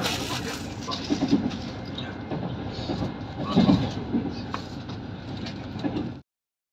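Train running noise heard from inside a moving carriage: a steady rumble of wheels on track with clattering knocks, two of them heavier. The sound cuts off abruptly about six seconds in.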